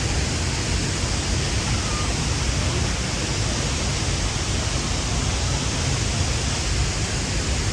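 Waterfall's steady roar of falling water, an even rushing noise.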